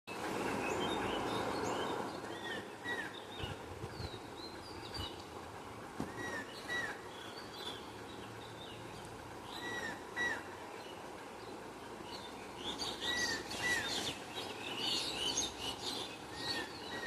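Wild birds calling outdoors: a repeated pair of short arched chirps every three to four seconds, over higher twittering calls that grow busier near the end. A rushing noise sits under the calls for the first two seconds.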